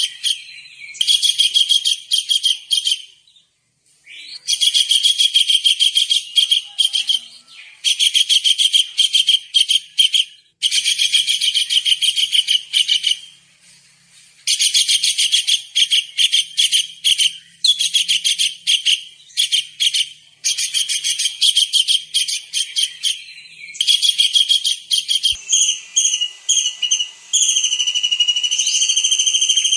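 Small kingfisher (tengkek udang) calling in repeated bursts of rapid, high-pitched trills, each two to three seconds long with short pauses between. Near the end the trills give way to a steady high whistle.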